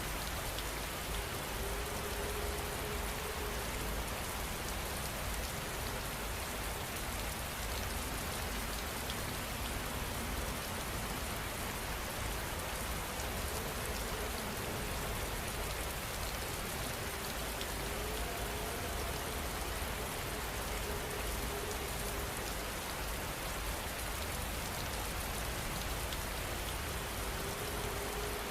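Steady rain falling on a surface, an even hiss of raindrops that holds constant throughout.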